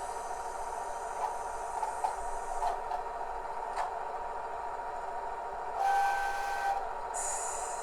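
DCC sound decoder in a KATO HO-scale Kiha 110 diesel railcar model, playing the railcar's running engine sound steadily through its small speaker. About six seconds in, the decoder sounds one short horn blast of about a second, followed shortly by a brief hiss of released air.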